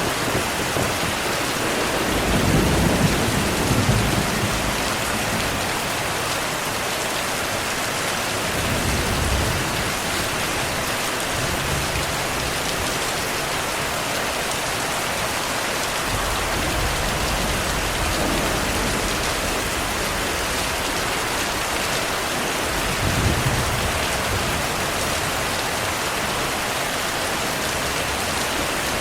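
Heavy, steady rain hissing, with low rolls of thunder rumbling several times. The loudest rumbles come a few seconds in and again about three quarters of the way through.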